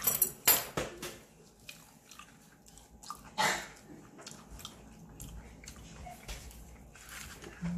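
A person biting and chewing food close to the microphone, with a cluster of sharp, loud mouth noises in the first second and another about three and a half seconds in.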